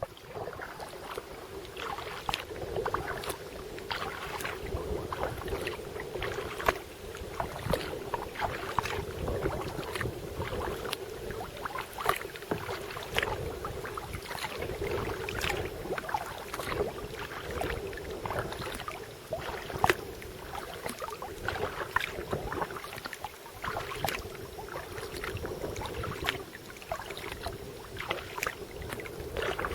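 Double-bladed paddle strokes driving a Dagger Stratos kayak: splashes and drips repeating about once a second, over a steady rush of water along the hull.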